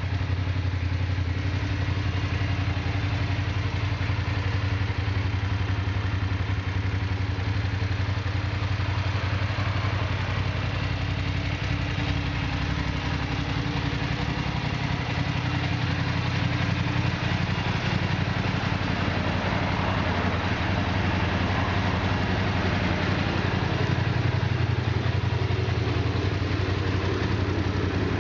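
BMW F 850 GS motorcycle's 853 cc parallel-twin engine idling steadily.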